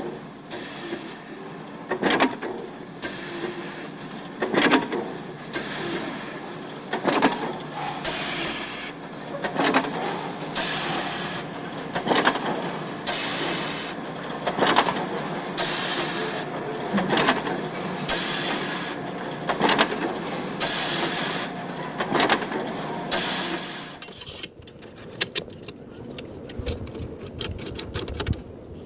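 Irregular sharp knocks and clicks, about one every second, over a mechanical clatter. About 24 seconds in they give way to quieter, muffled rapid ticking.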